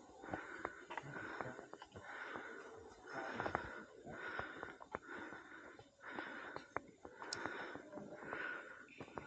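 A person's fast, heavy breathing in a steady rhythm of about one breath every three-quarters of a second, with sharp clicks scattered between the breaths.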